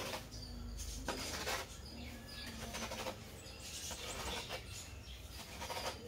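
Small bird giving short, high chirps, with a few scattered clicks or rustles.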